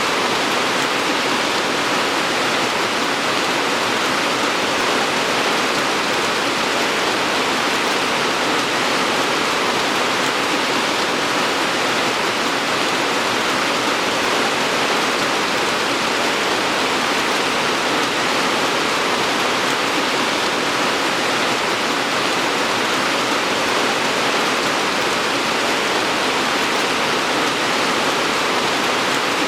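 Steady rain, an even hiss of falling water with no breaks or distinct drops.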